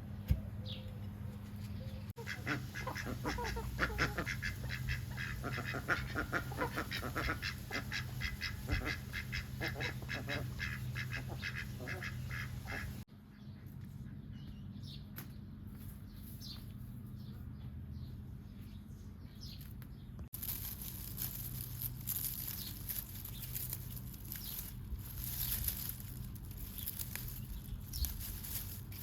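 Farm poultry calling as a flock, in rapid repeated calls that are busiest in the first half; the sound changes abruptly twice, and the last third carries a steady high hiss.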